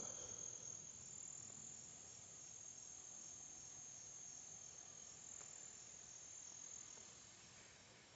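Near silence, with a faint, steady, high-pitched trill of insects.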